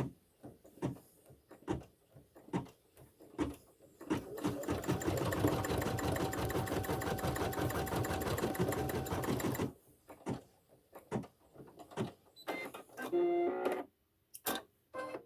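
Computerised embroidery machine stitching a short satin-stitch section at high speed, a fast, even needle rhythm with a steady whine, starting about four seconds in and stopping about six seconds later. Scattered clicks come before and after the run.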